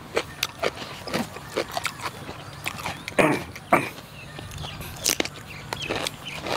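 Close-miked chewing and lip-smacking of people eating sliced liver and fresh greens: a string of short, wet mouth clicks, with two louder slurping sounds about three seconds in.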